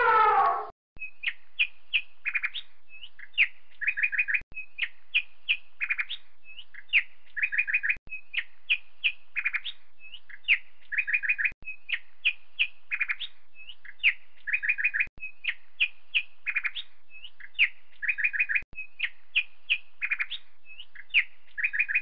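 Small bird chirping: a phrase of short, high chirps that repeats the same way about every three and a half seconds. It opens with the end of an elephant's trumpet, which cuts off under a second in.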